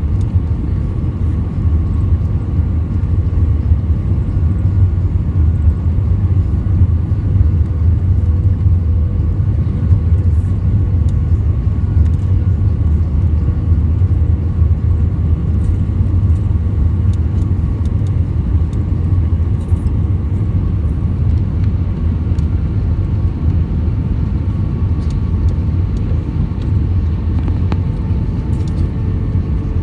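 Steady low rumble inside an Airbus A320's cabin: engine and airflow noise, with a couple of faint steady tones above it.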